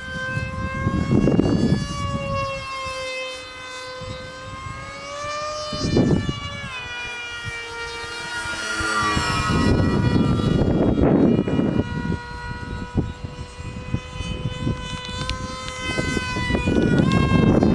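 Electric RC model airplane motor and propeller whining steadily in flight, its pitch sagging and climbing back about halfway through. Gusts of wind buffet the microphone several times.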